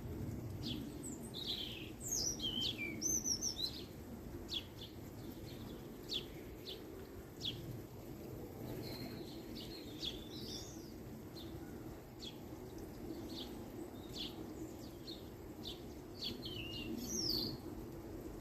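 Birds chirping and calling, many short quick chirps with a few longer sweeping calls, over a steady low background noise.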